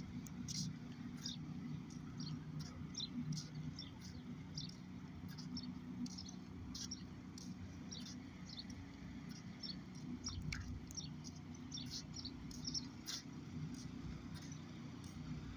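Small birds chirping in short, sharp calls, scattered irregularly throughout, over a steady low hum.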